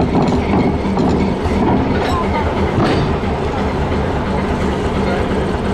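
Train running on rails: a steady rumble with sharp clicks from the wheels about two and three seconds in.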